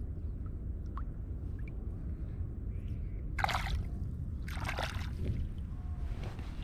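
Two short splashes of water, about a second apart, over a steady low rumble.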